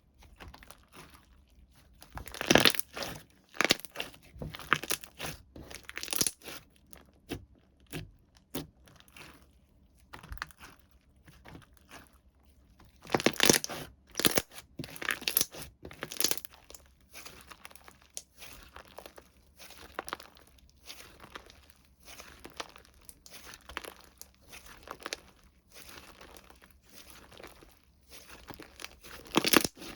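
Hands crinkling and tearing plastic and paper packaging in irregular bursts, loudest about two seconds in and again about thirteen seconds in.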